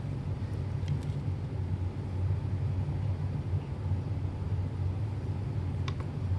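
Steady low mechanical hum with a faint hiss, and a couple of faint clicks about a second in and near the end.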